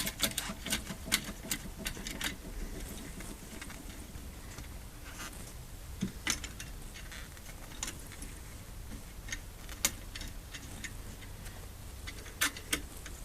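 Light clicks and taps of small metal parts being handled while the fuel line in the gas tank is adjusted, a quick run of them at the start, a few scattered through the middle and a short cluster near the end.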